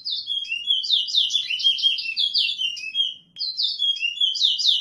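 Towa-towa (chestnut-bellied seed finch) singing a fast run of sweeping, downward-sliding whistled notes. The song breaks off about three seconds in and then starts again.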